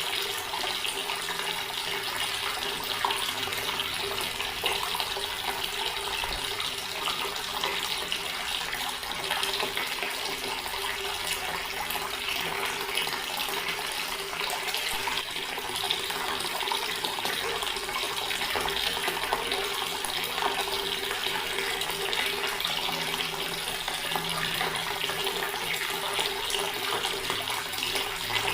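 Water running steadily from a tap into a stone basin, splashing with an even rush.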